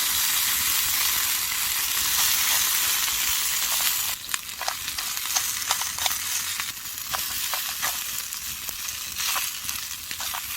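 Chicken dak-galbi sizzling on a hot elvan stone grill plate. A loud, dense sizzle for about four seconds drops abruptly to a softer sizzle, with scattered sharp pops and crackles.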